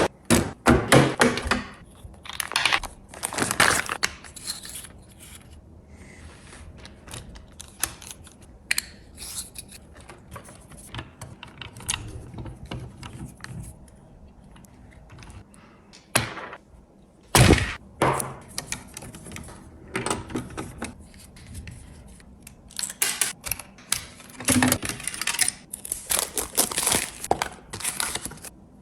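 Irregular clicks, knocks and rattles of a plastic toy truck being handled, with a few louder clacks around the middle and no steady motor sound.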